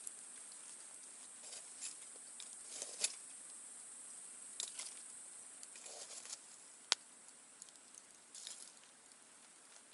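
Wood campfire crackling in irregular clusters of small pops, with one sharp snap about seven seconds in.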